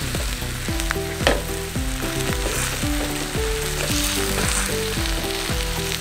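Chicken, shallots and spice masala sizzling in coconut oil in a clay pot while a wooden spatula stirs and presses the meat, with scrapes and knocks on the pot and a sharper knock about a second in. Background music with a melody and a beat plays under it.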